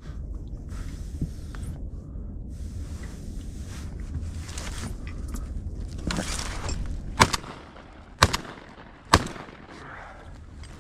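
Three shotgun shots about a second apart from a Beretta A350 Xtrema semi-automatic shotgun, the first the loudest, fired at incoming wigeon, two of which are downed. Low rumbling noise runs before the shots.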